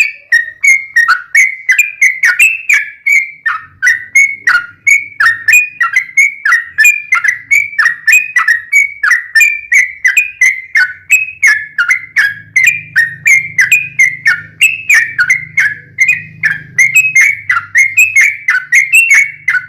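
Yellow-vented bulbul (trucuk) singing a fast, unbroken run of short whistled notes, about three a second, with no pauses.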